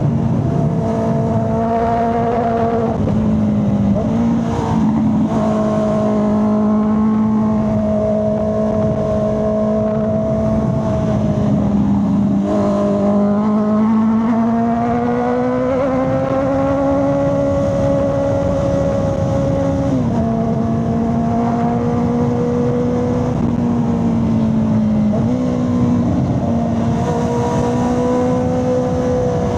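Honda CB650R's inline-four engine running while the motorcycle is ridden through curves, its exhaust note holding a steady pitch. The pitch dips about twelve seconds in and climbs back, then drops suddenly near twenty seconds and jumps up again near twenty-five seconds as the throttle and revs change.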